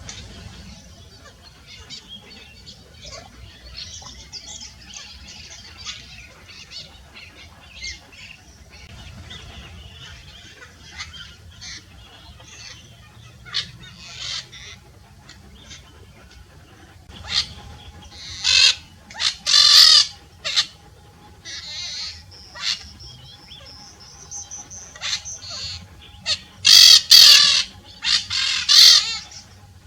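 Peach-fronted parakeets calling: scattered short chirps at first, then loud harsh screeches in two bunches, one just past the middle and one near the end.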